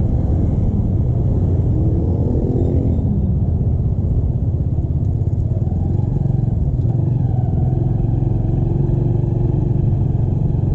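Motorcycle engine running while riding on the road, with a steady wind rumble on the microphone; the engine pitch shifts briefly about two seconds in and again past the middle.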